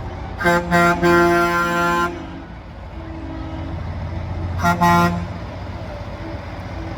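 Semi-truck air horn sounding in blasts: two quick toots then a long one lasting about a second, and two more quick toots a few seconds later, over the steady low rumble of truck engines.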